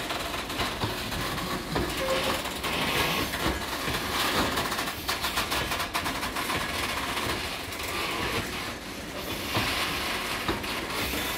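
Freight wagons of an engineering train rolling past, their wheels clattering over the rail joints in a steady run of clicks over a continuous rumble.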